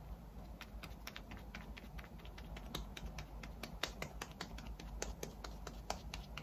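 Quick, irregular soft tapping clicks, a few a second, as Erborian BB cream is patted into the skin of the face.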